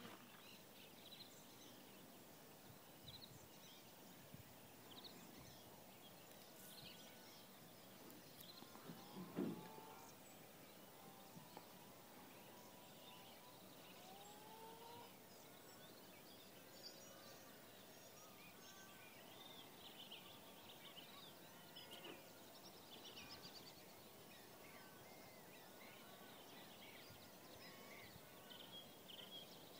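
Faint birdsong over quiet background hiss: scattered short chirps and whistled glides throughout, with one slightly louder brief call about nine seconds in.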